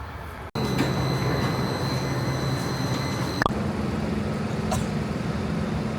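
Steady vehicle noise with a high, steady whine over a low hum, starting abruptly about half a second in and changing to a different steady hum about three and a half seconds in.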